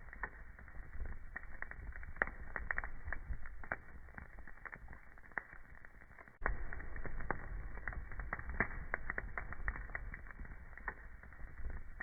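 Wood fire crackling in a fireplace: many irregular sharp pops and snaps over a low, steady rumble of the flames. About halfway through, the low rumble suddenly gets louder.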